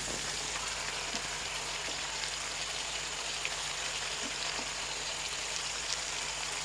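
Chicken and onions frying in oil in an iron kadhai: a steady sizzling hiss with a few faint crackles.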